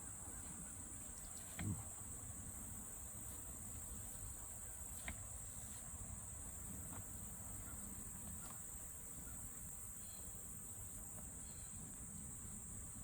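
Steady, high-pitched insect trilling over a low hum, broken by a soft thump about two seconds in and a sharp click about five seconds in.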